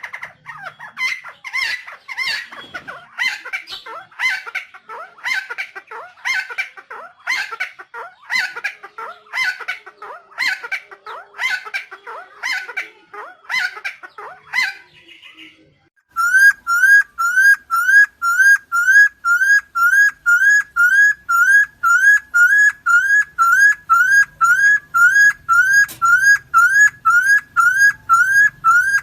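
Helmeted friarbird (Philemon buceroides) calling over and over in harsh, grating notes, about one and a half a second. About fifteen seconds in the calls cut off abruptly and a very regular rising whistle takes over, repeated about twice a second.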